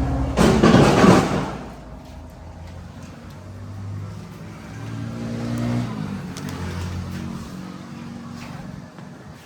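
Diesel tractor engine revving under load, its note rising and falling. A loud rushing noise comes in the first second and a half.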